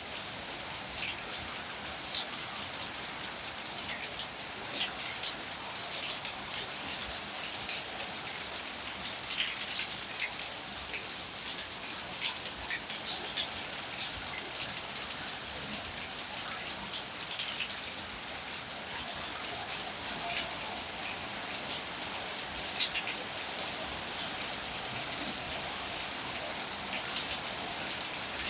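Steady rain falling, with scattered sharper drop hits; the loudest come about five seconds in and again near the end.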